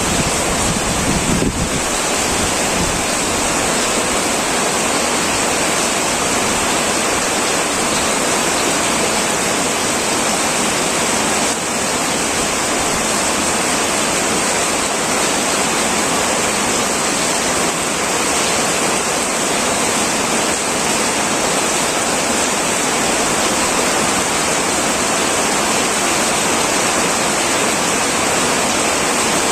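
Heavy rain drumming steadily on a tin metal roof, a dense even hiss. A low rumble dies away in the first two seconds.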